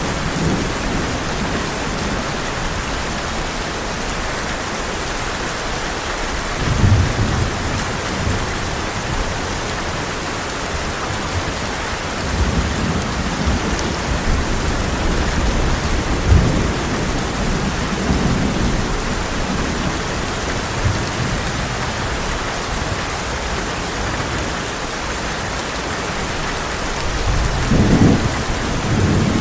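Heavy rain falling steadily on a tin roof, with rolling thunder rumbling several times. The strongest rumbles come about 7 seconds in and again near the end.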